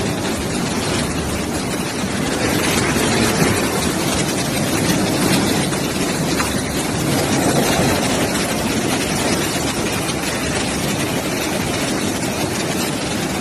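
Fast-flowing floodwater rushing past in a steady, unbroken noise.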